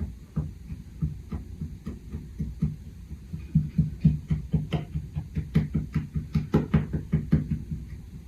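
A small hammer tapping repeatedly on scattered soil over a model dirt track, pressing it down firm. Dull knocks about three a second, then louder and quicker, about four a second, from around halfway.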